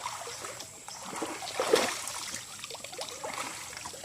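Water in a shallow spring splashing and trickling, with one louder splash a little under two seconds in.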